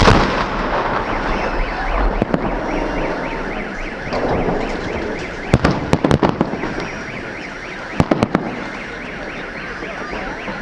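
Fireworks salute: a loud bang at the start followed by crackling, then clusters of sharp bangs about halfway through and again a little later. Underneath, a car alarm warbles over and over in a fast repeating pattern.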